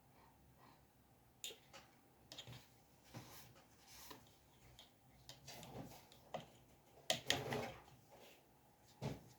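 Drawing tools handled on paper and desk: scattered light taps, clicks and short scratches, the loudest cluster about seven seconds in.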